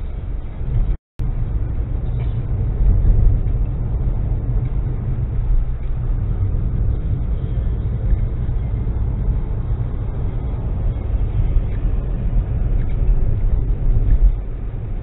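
Steady low rumble of a car driving, engine and road noise as picked up by a dashcam, with a brief total dropout about a second in.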